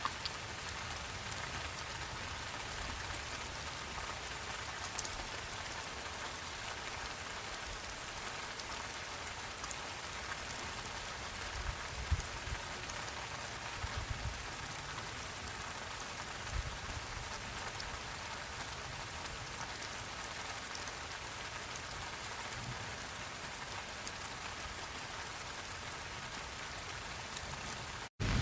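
Steady rain falling, with a few louder drips about halfway through. The sound cuts out abruptly for a moment near the end.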